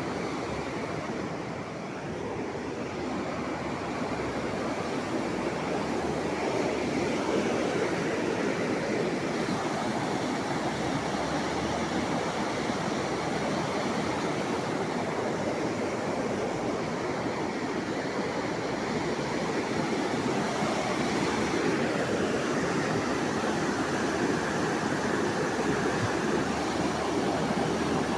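Rushing water: a steady, unbroken roar of flowing water.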